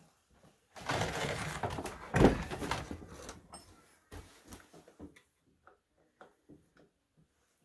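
Hands working on a Honda EU3000is generator to drain the fuel from its carburetor bowl: a stretch of rustling and scraping with one sharp knock about two seconds in, then scattered light clicks and taps.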